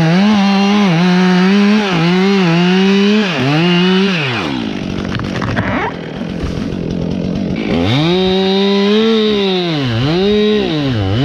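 Two-stroke chainsaw running at high revs, its pitch dipping and rising again several times as the throttle is eased and opened. For about three seconds in the middle, the steady note breaks up into a rough, noisy sound.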